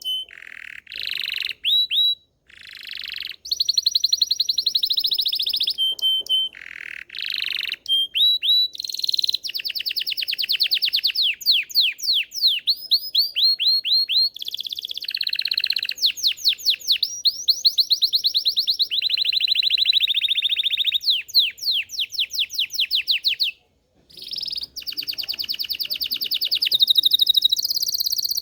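Domestic canary (Belgian canary) singing a long, continuous song of fast trills and rolling runs of repeated high notes, broken by short pauses.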